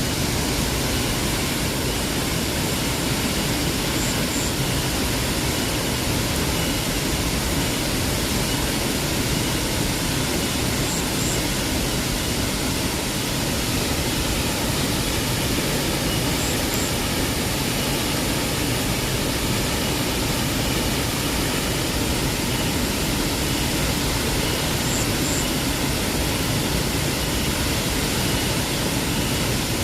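Waterfall rushing in a steady, unbroken roar of falling water. A faint high double chirp recurs every few seconds.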